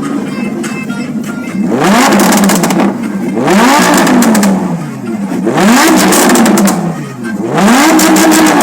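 Lamborghini engine and exhaust revved four times from idle, each rev climbing, holding briefly and dropping back to idle, with crackles from the exhaust during the revs.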